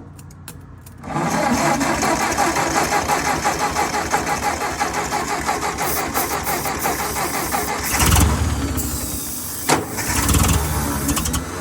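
Ford 600 tractor's four-cylinder gasoline engine cranking over on its starter after years without running. A fast, even pulsing starts about a second in. Two heavier surges come around eight and ten seconds in as it fires briefly on starting fluid without staying running.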